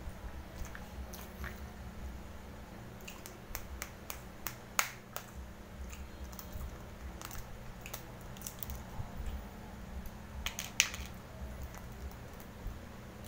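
Close-up mouth sounds of a man chewing and biting grilled meat: irregular soft clicks and smacks, with two sharper clicks about five and eleven seconds in.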